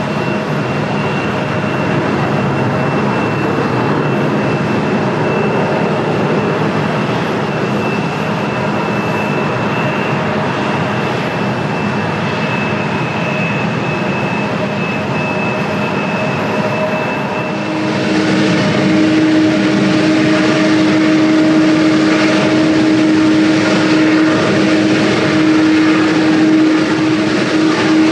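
Jet airliner engines running loud and steady, with a constant whine over a broad rush of noise. About two-thirds of the way through the sound abruptly gets louder and a new steady hum comes in.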